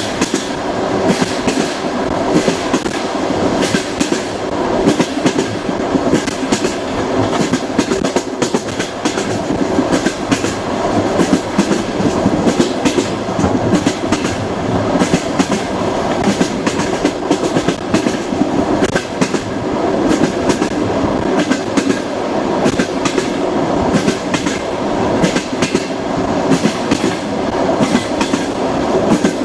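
Passenger train wheels clattering over rail joints under a steady rolling rumble, with many sharp clacks throughout.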